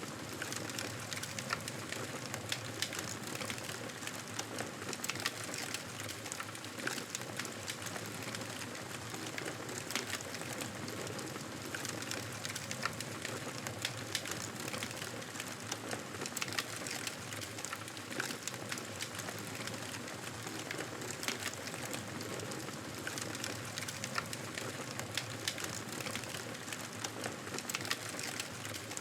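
Wood fire crackling in a fireplace: a steady hiss dotted with many small, irregular pops and snaps.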